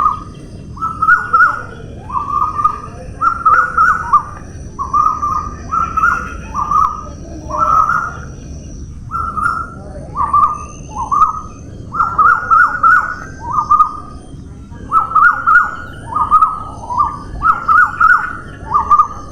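A bird calling over and over in short, loud notes, about two a second, with a couple of brief pauses along the way.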